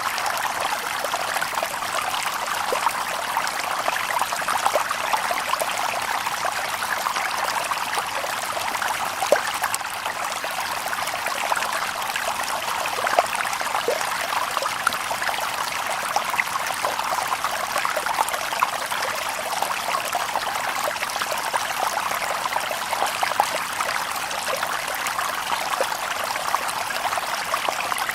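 Shallow stream babbling over stones: a steady rush of water with many small splashes and gurgles.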